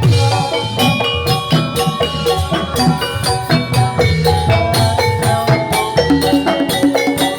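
Javanese gamelan music for a jathilan dance: struck bronze metallophones and gongs ring out interlocking notes over drums, in a steady, continuous rhythm.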